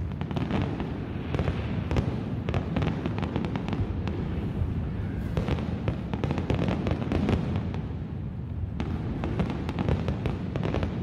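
Fireworks display: aerial shells bursting in rapid clusters of bangs and crackles over a continuous low rumble, with a brief lull about eight seconds in.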